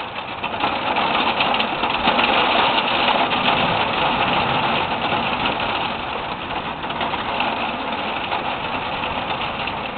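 Steady rush of heavy thunderstorm rain, swelling about a second in and holding.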